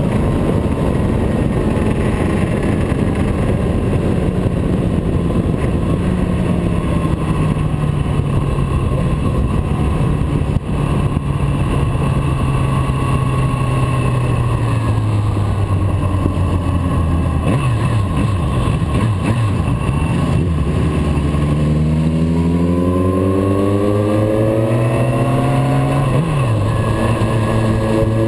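Motorcycle engine running under way: its pitch sinks slowly as it slows down, then climbs again as it accelerates about three-quarters of the way through, dropping sharply once near the end at a gear change before rising again.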